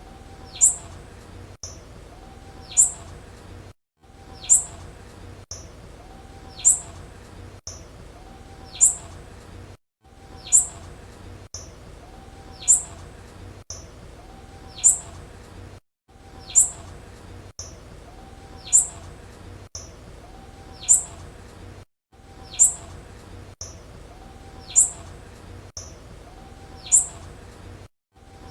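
Blue-black grassquit (tiziu) chirping: a short, sharp, high note repeated about every two seconds, played as a looped recording that cuts out briefly every six seconds or so.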